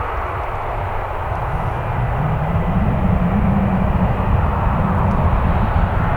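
Boeing 737 on pushback with its jet engines running: a steady rushing noise with a low hum that rises a little in pitch about two to three seconds in.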